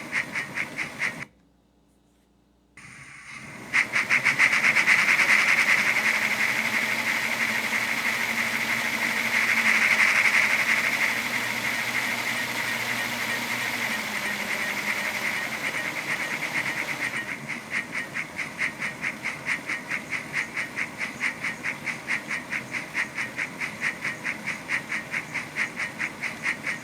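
Soundtraxx Econami UK Steam DCC sound decoder playing a steam locomotive's exhaust chuffs, set to the LNER A4 chuff, through a small loco-mounted speaker: a steady run of even chuffs that cuts out briefly about a second in. The chuffing comes back with a loud steam hiss over it for about twelve seconds, then the even chuffs stand out on their own again.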